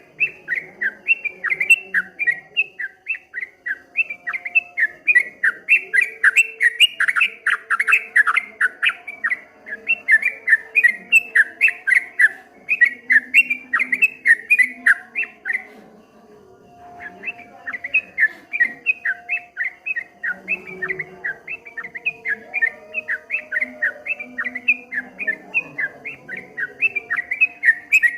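Yellow-vented bulbul (trucukan) singing a fast rolling 'ropel' song: a long run of short chirping notes, about four or five a second, broken once by a pause of about a second and a half near the middle.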